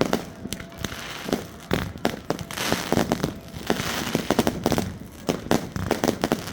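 Fireworks going off in rapid irregular bangs and pops, with a dense stretch of crackling about halfway through.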